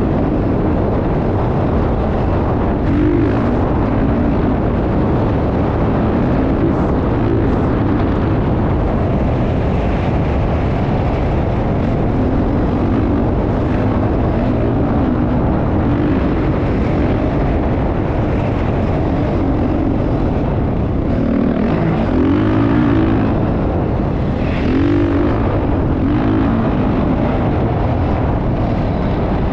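Motocross bike engine running throughout, its pitch rising and falling as the throttle changes.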